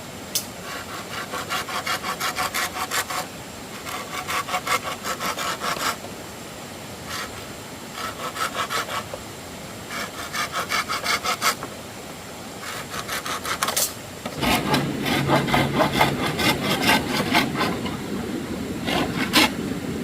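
Hand saw cutting bamboo in short runs of quick back-and-forth strokes, about four or five a second, with brief pauses between runs. The last few seconds are louder and heavier.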